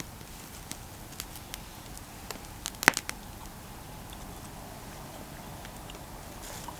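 Wood campfire crackling: scattered sharp pops over a low, steady hiss, with a louder cluster of pops about three seconds in.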